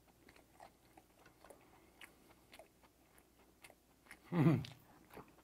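A person chewing a mouthful of steamed skate, soft wet clicks and crunches of the flesh and cartilage. About four seconds in comes a short vocal 'mm' that falls in pitch.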